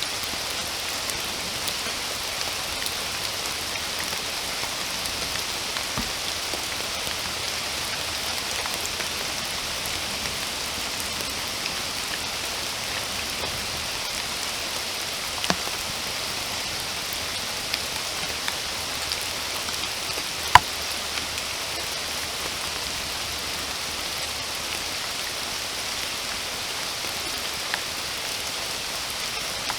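Steady rain falling, an even hiss of many drops. A few sharper single taps stand out, the loudest about two-thirds of the way through.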